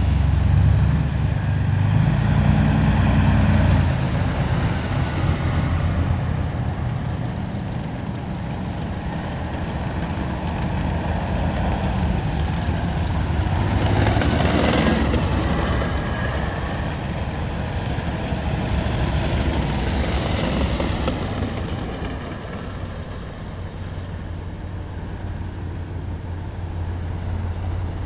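A column of heavy military vehicles driving past with a continuous deep engine drone. The drone is loudest near the start, and one vehicle passes close about halfway, with another pass a few seconds later.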